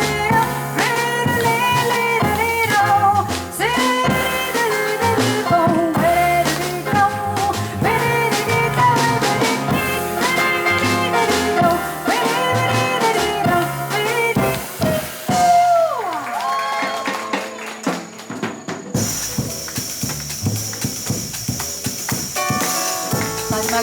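Live jazz band playing: piano, double bass and drum kit. About two-thirds of the way through the playing thins out with a long falling slide in pitch, then a steady high hiss sets in under quieter playing.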